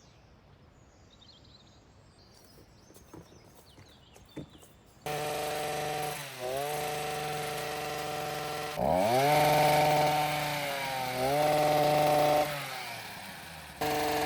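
Faint birdsong and a few light clicks, then about five seconds in a chainsaw suddenly starts up loud. It is blipped once, then held at high revs twice as it cuts, easing back between, and dies down near the end before coming back in abruptly.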